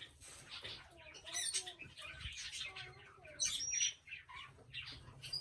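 Pet green parrot chirping, squeaking and chattering in a quick string of short calls, with a brief high whistle a little past three and a half seconds in.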